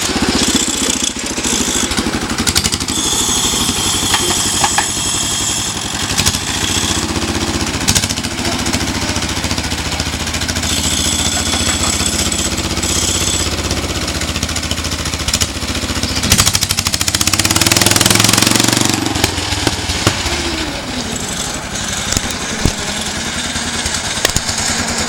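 Engine running through a new vertical stack exhaust, idling with a fast, even beat. It is revved up about sixteen seconds in and drops back to idle about four seconds later.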